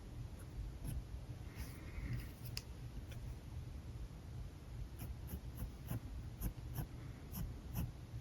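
Alcohol marker nib drawing on paper: soft scratchy strokes and small ticks as the tip touches down, over a low steady hum.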